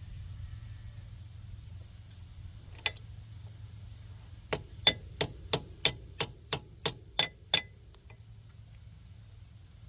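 A hammer tapping on metal: one quick double tap, then a run of about ten sharp, ringing strikes at about three a second that stops abruptly.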